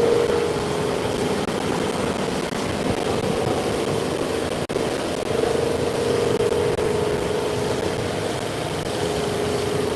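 A machine running with a steady hum and a mid-pitched tone that swells and fades. The sound cuts out for an instant near the middle.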